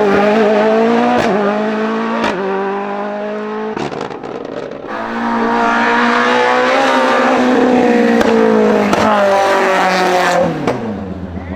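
Race car engine at high revs, shifting up with sharp breaks between rising runs of revs. It eases off about four seconds in, pulls again, then drops steeply in pitch near the end as the driver lifts off.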